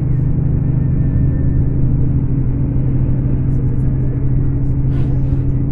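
Scania K410 coach's rear-mounted inline-six diesel running at a steady speed, a constant low drone that holds its pitch.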